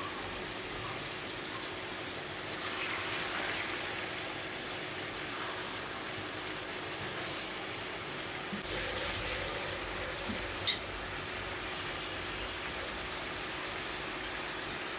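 Chicken and whole tomatoes sizzling steadily in hot oil in a steel pot, over a faint steady hum. The sizzle swells a few seconds in and again about halfway through as spice pastes are spooned in. A single sharp click comes about two-thirds of the way through.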